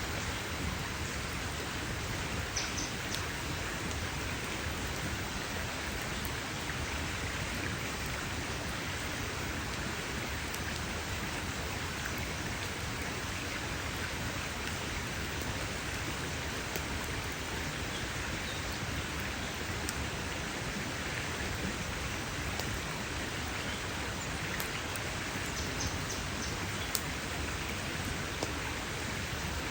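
Wood campfire burning: a steady hiss with scattered sharp crackles and pops, a few louder pops near the start and near the end.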